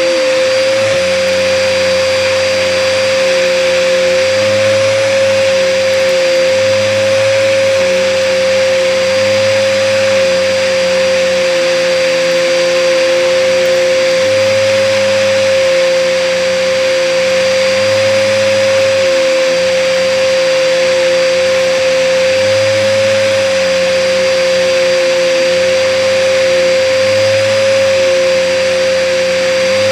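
Hoover upright vacuum cleaner running with a steady high motor whine over a loud rush of air, and a lower hum that swells and fades every two to three seconds. The owner says the vacuum is clogged and needs unclogging.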